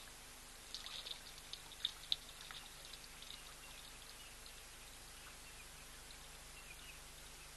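Faint bird chirping: a quick run of short, sharp, high chirps between about one and two and a half seconds in, then softer chirps near the end, over a steady outdoor hiss.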